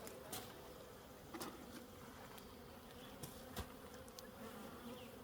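Honeybees buzzing steadily around an open hive, the hum of an agitated colony, with a few light clicks.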